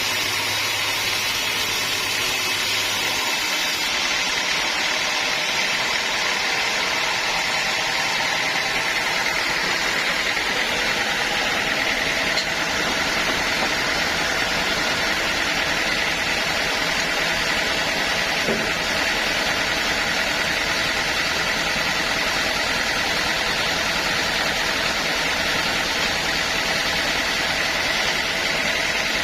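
Sawmill band saw and its drive motor running steadily, a continuous mechanical noise with a high whine. A low hum drops away about three seconds in.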